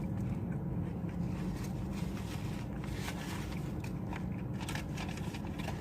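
Close-up chewing of a fast-food burger mouthful, with faint scattered crunchy clicks over a steady low hum.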